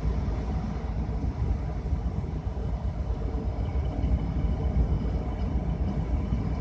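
2000 Chevy Impala's 3400 (3.4 L V6) engine idling steadily with a low, even rumble. The owner suspects low fuel pressure: it idles but stalls when given gas or put in gear.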